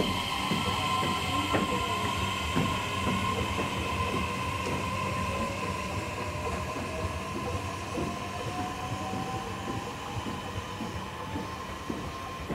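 Electric train running, its wheels clicking over rail joints, with a steady electrical hum and a motor whine that rises slowly in pitch as it gathers speed.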